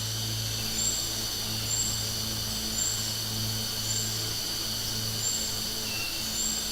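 Cicadas singing in chorus: a steady, shrill, high buzzing drone, with a short high note repeating about once a second over it. A low hum sits underneath, dropping out briefly a few times.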